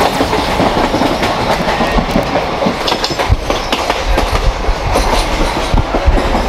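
Deccan Queen passenger coaches running at speed, heard from the open window: a steady loud rumble and clatter of the wheels on the rails.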